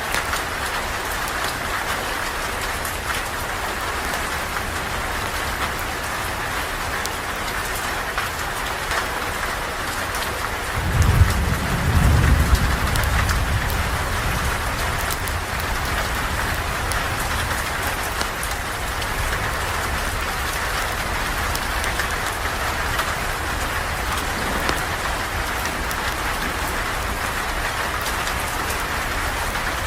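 Steady rain falling, heard from under a porch. About a third of the way in, a low rumble of thunder swells for a few seconds and then fades back into the rain.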